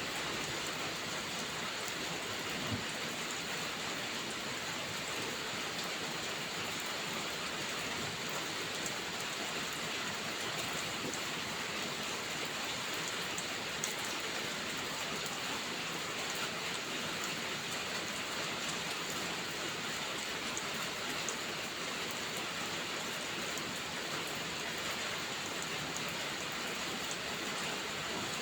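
Steady rain falling, an even hiss with a few faint ticks of individual drops scattered through.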